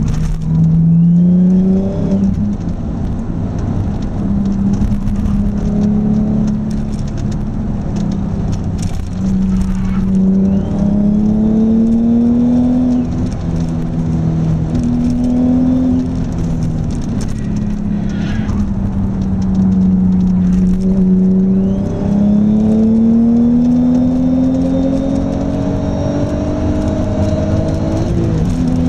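Audi S4 engine heard from inside the cabin, pulling hard on a race track. Its note climbs in pitch through each gear and drops at each change, about every two to six seconds, over steady road and tyre noise.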